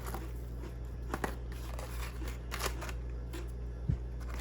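Close-up chewing of crunchy jerk-seasoned baked crackers: irregular crisp crunches and crackles, over a steady low hum.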